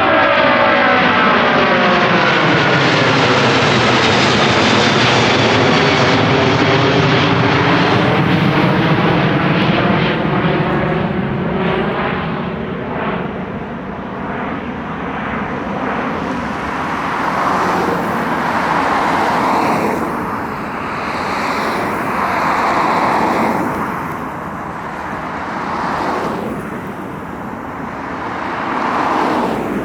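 Jet airliner departing low overhead after takeoff: loud engine noise with a sweeping, whooshing change of tone as it passes, then fading off into the distance, the rumble swelling and dropping in waves.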